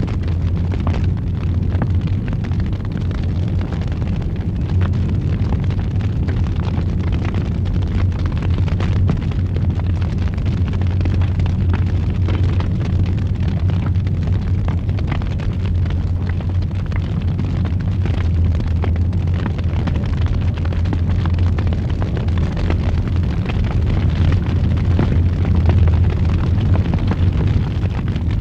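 Fire in a fireplace burning steadily: a continuous low rumble with many small crackles and pops throughout.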